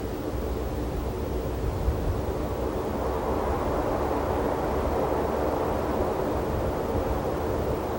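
Wind blowing over open desert ground, with a low rumble buffeting the microphone and a broader rush that swells about three seconds in.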